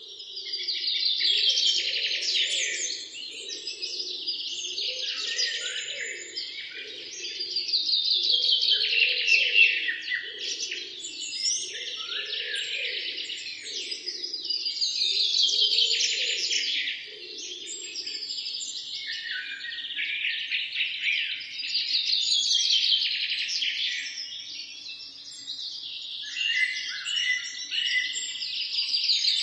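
A dense chorus of small birds chirping and singing, swelling in busy waves about every seven seconds. A fainter, lower pulsing call sits underneath and fades out a little past halfway.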